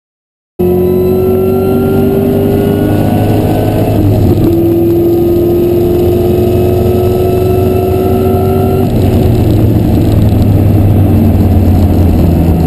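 A 2003 Mustang Cobra's supercharged 4.6-litre V8 at full throttle, heard from inside the cabin. Its revs climb, break at a gear change about four seconds in, and climb again. The sound cuts in abruptly about half a second in.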